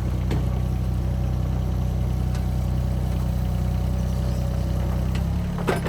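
An engine idling steadily, with a few light knocks and a sharper knock near the end.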